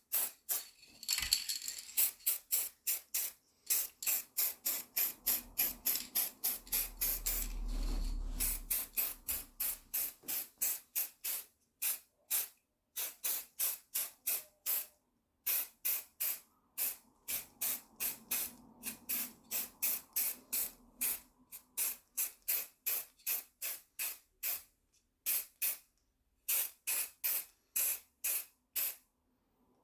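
Aerosol can of silver metallic chrome spray paint being sprayed in short, rapid bursts, about three hisses a second with brief pauses. A low rumble comes in about seven seconds in.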